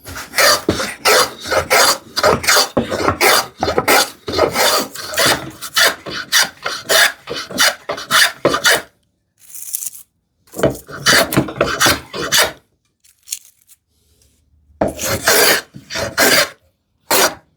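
Hand plane cutting a bevel on a narrow board: a quick run of short rasping strokes, about three a second, for most of the first half, then a pause and two shorter bursts of strokes.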